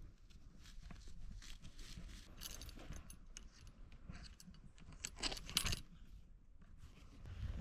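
Camping gear handled while pitching a tent: light metallic clinks and rattles among rustling. There are small clusters of clinks about two and a half seconds in and again around five seconds in.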